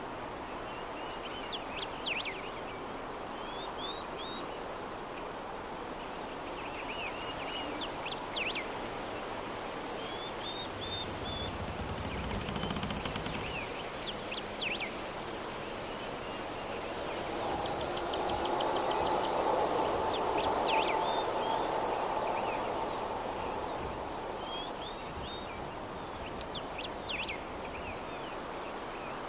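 Steady soft breeze with a small bird chirping in short repeated phrases every couple of seconds. A low rumble comes in briefly near the middle, and a louder hum-like sound swells and fades a little after that.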